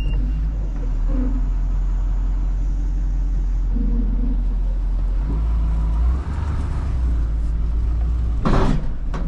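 Truck engine running steadily, a low rumble that grows louder about five seconds in, with a short burst of noise near the end.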